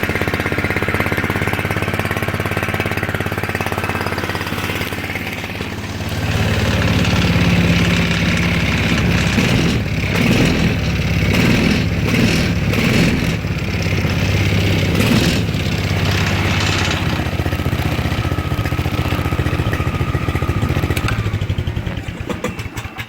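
Small Subaru Robin go-kart engine running with the choke jammed on, just brought back to life after sitting stuck. It idles steadily, runs louder from about six seconds in with some clicks midway, then shuts down near the end.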